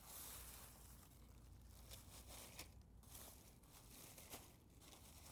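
Near silence, with faint rustling and a few soft clicks.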